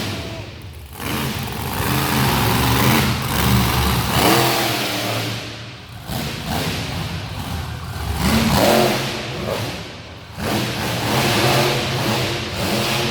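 Monster truck engine revving hard in repeated surges, its pitch climbing and falling, with short lulls between the bursts.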